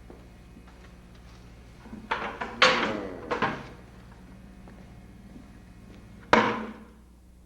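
A cluster of loud knocks and scrapes about two to three and a half seconds in, then one hard bang, like a slam, about six seconds in, over a steady low hum.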